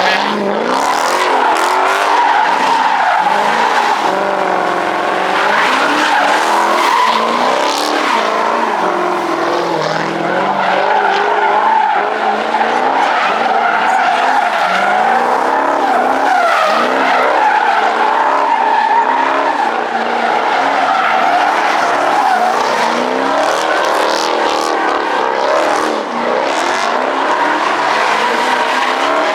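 Car tyres squealing and skidding almost without a break, their pitch wavering up and down, over a revving car engine.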